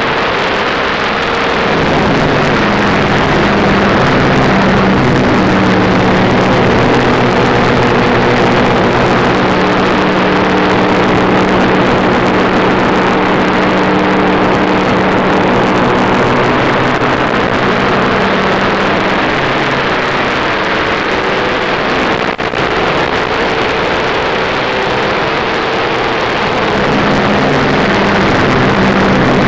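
Stock car's V8 engine running hard at speed on track, heard from inside the car over a steady rush of wind and road noise. The engine note climbs about two seconds in, eases off briefly a little past twenty-two seconds, and climbs again near the end.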